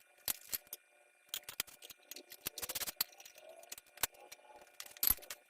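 Irregular metallic clicks, clanks and rattles of tools and parts being handled, with a quick run of clicks about halfway through.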